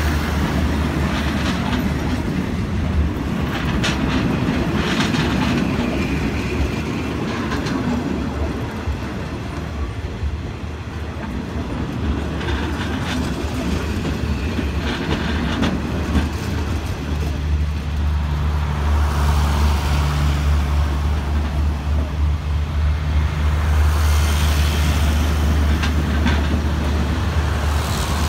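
Passenger coaches of a Thai express train rolling past slowly, wheels clicking over the rail joints with a steady rumble and a low hum that grows stronger in the second half. The train is running at reduced speed through a track construction zone.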